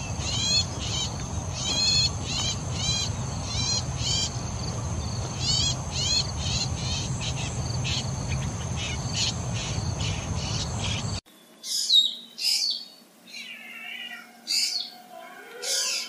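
Long-tailed shrike calling: runs of short, hooked, falling notes, about two a second in clusters, over a steady high-pitched tone. About eleven seconds in, the sound cuts to a black drongo's separate, differently shaped calls.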